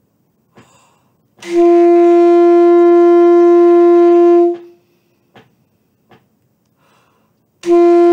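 Saxophone playing a long tone on the note so (written G): one steady held note of about three seconds, a rest, then the same note starting again near the end.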